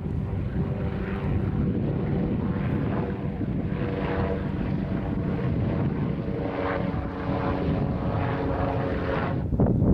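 A steady engine drone with a hum of several held tones over a low rumble, with wind buffeting the microphone. It changes abruptly near the end.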